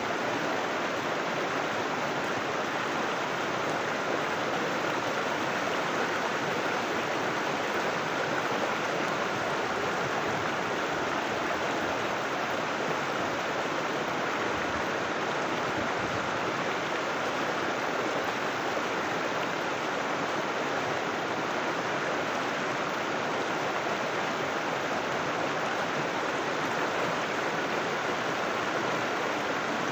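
River water flowing and splashing, a steady even rush with no change.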